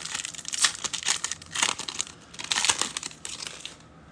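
A foil trading-card pack wrapper being torn open and crinkled by hand, a quick run of sharp crackles that dies away near the end.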